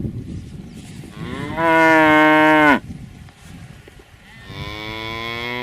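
A cow mooing: one loud moo about a second and a half in, then a second, quieter moo starting near the end. Each is a long call that drops in pitch as it ends.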